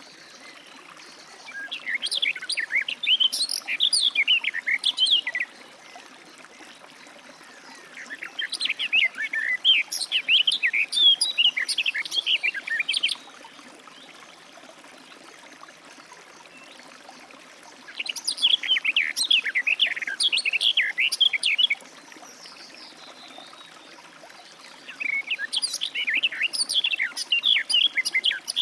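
Garden warbler singing: four long, fast, warbling song phrases of about four to five seconds each, separated by pauses of several seconds, over a faint steady background hiss.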